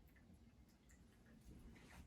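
Near silence with a few faint, scattered ticks.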